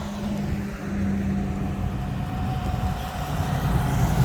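Classic car engines running as the cars pass slowly in a parade. A deeper engine rumble grows louder near the end as the next car approaches.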